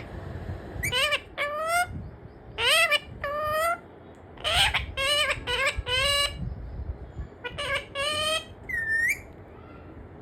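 Parrot calling: a series of short squawks that rise in pitch, in groups of three to five, with a single swooping call near the end.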